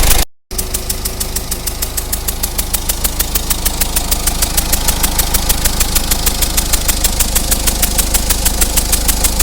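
Diesel engine idling with a fast, even puffing tick from the third cylinder's injector, where compression gas is leaking past a worn copper sealing washer.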